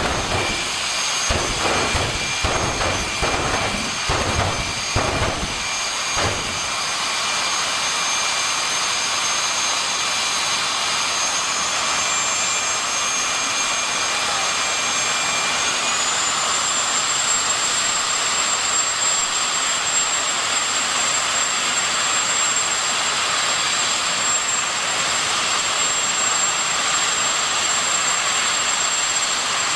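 Turbine jet engine of a jet-powered drag-racing car. It gives a series of loud, rapid blasts for about the first six seconds, then settles into a steady, loud jet whine and hiss. The high whine steps up in pitch twice.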